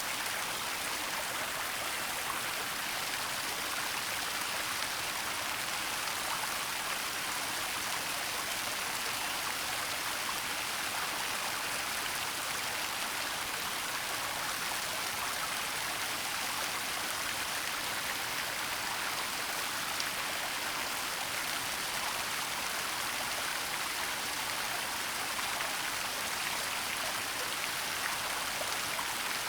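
Waterfall and flowing water: a steady, unbroken rushing hiss, heaviest in the upper range.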